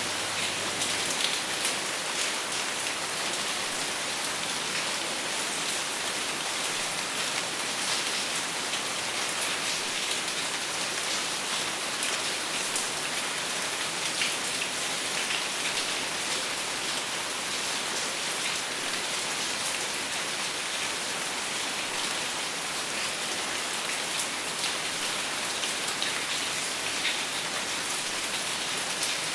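Steady rain falling, with many individual drops pattering on a surface and no thunder.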